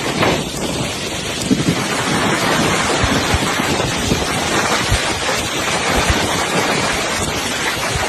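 Heavy storm rain pouring down, with strong wind gusting against the microphone.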